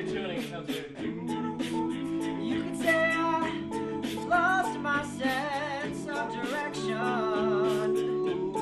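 All-male a cappella group singing: a lead voice with vibrato over sustained backing chords, with a steady beat.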